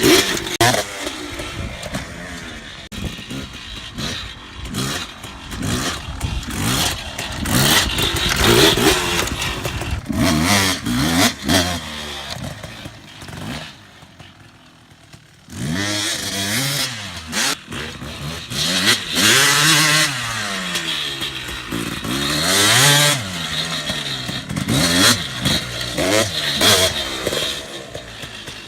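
Dirt bike engine revving up and falling back over and over as it is ridden around a dirt track, the throttle opening and closing through jumps and turns. It drops away for a second or two about halfway through, then picks up again.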